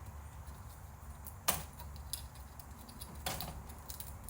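Clicks and knocks of small plastic and metal parts being handled while a VCR is taken apart: one sharp click about a second and a half in, then a short rattle of clicks near the end.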